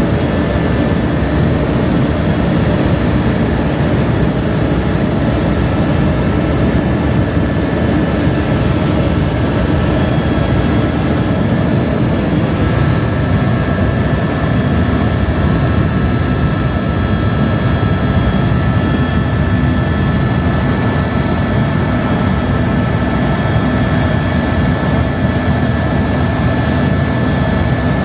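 Helicopter in flight: a steady, loud rotor and engine noise with a constant high whine over it.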